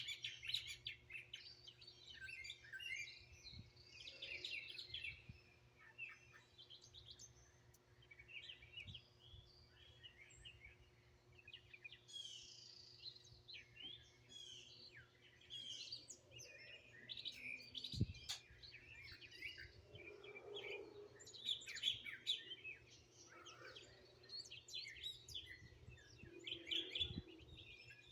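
Several songbirds chirping and singing at once, short overlapping calls and trills throughout, with a single sharp click about eighteen seconds in.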